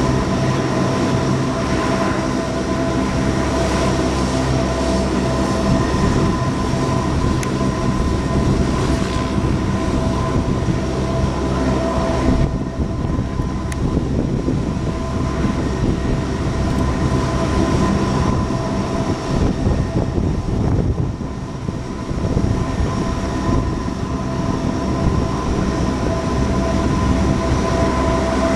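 Lockheed P-3C Orion's four Allison T56 turboprop engines running steadily: a constant drone with steady whining tones, dipping briefly in level about twelve seconds in and again about twenty-one seconds in.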